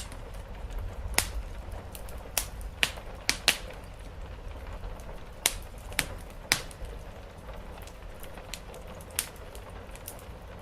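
Wood fire crackling, with sharp irregular pops and snaps, loudest in clusters in the first seven seconds, over a steady hiss of rain on a roof and a low rumble.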